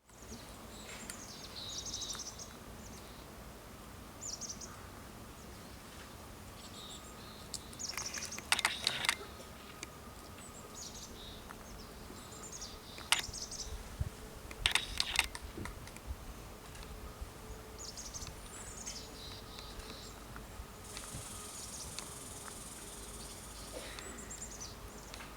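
Pileated woodpecker pecking at wood in a few short bursts of sharp knocks, about a third of the way in and again around the middle. Small songbirds call throughout with short, high, descending chirps over a faint steady hum.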